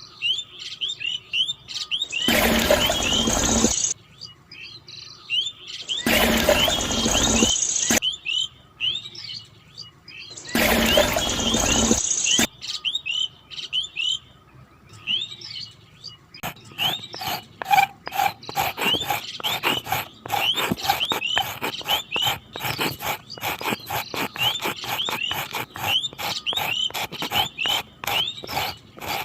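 Small birds chirping over and over in short quick calls, broken by three loud bursts of noise lasting a second or two each. From about halfway through, a fast run of clicks or rattling joins the chirps.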